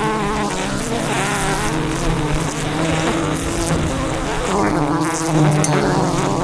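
A swarm of wild honey bees buzzing around their giant hive: a dense, steady drone of many wingbeats.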